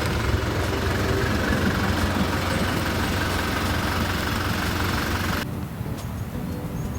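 A vehicle on the move: a steady low rumble with rushing road and wind noise. About five and a half seconds in the sound changes abruptly, the hiss dropping away and leaving a quieter rumble.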